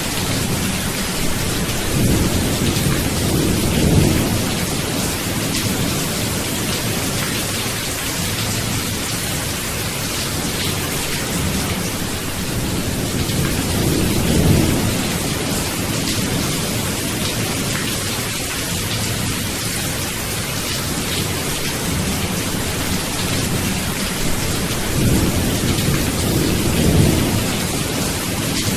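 Steady heavy rain hissing, with thunder rumbling low three times, about ten seconds apart.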